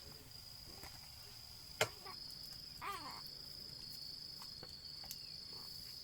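Crickets trilling steadily in a high, thin drone, with a single sharp click about two seconds in and a short rising-and-falling call about a second later.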